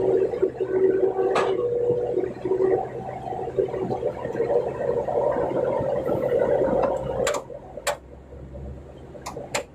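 Excavator's diesel engine and hydraulics working under load, with a steady mix of whine and rumble that drops off about seven seconds in. A few sharp knocks follow near the end.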